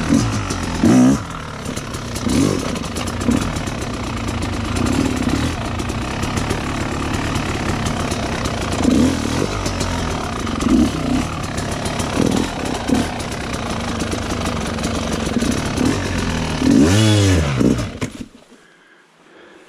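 Yamaha YZ250X's two-stroke single-cylinder engine lugging at low revs, with short throttle blips every few seconds and a bigger rev near the end, after which the engine stops abruptly.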